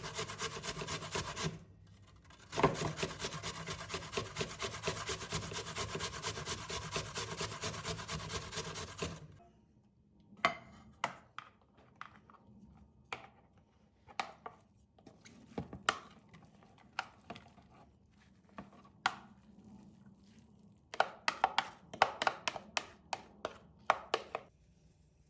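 Rapid, even rasping strokes, like something being scraped or grated by hand, which stop about nine seconds in. Scattered light taps and knocks follow, coming in a quick cluster near the end.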